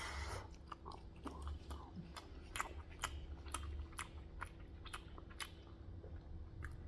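A person chewing food close to the microphone: a run of sharp mouth clicks and crunches, about two a second in the middle, over a faint steady low hum.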